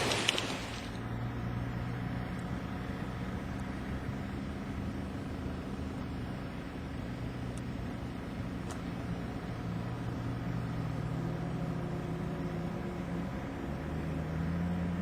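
Loud rain noise cuts off about half a second in, leaving a vehicle engine running with a steady low hum that swells slightly near the end.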